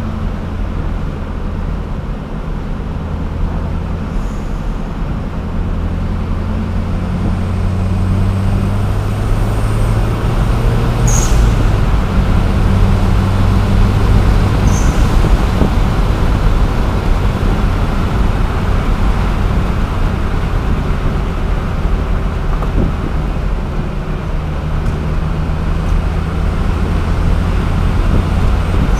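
Dodge Caliber SRT4's turbocharged 2.4-litre four-cylinder engine and tyre noise heard from inside the cabin while driving, a steady low drone. It grows louder for a few seconds around the middle and then eases off again.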